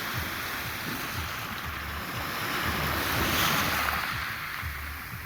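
Sea surf washing in, swelling about three seconds in and easing near the end, with wind buffeting the microphone in low thumps.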